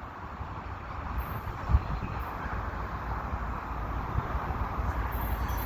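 Slow-moving CP freight train rolling past, a steady low rumble that grows slightly louder.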